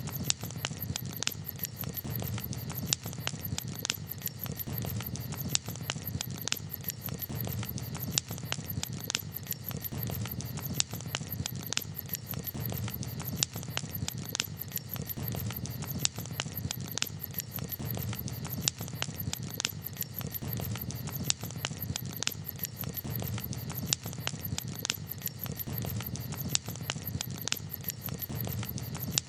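Campfire crackling: irregular sharp pops and snaps, some louder than others, over a steady low rumble.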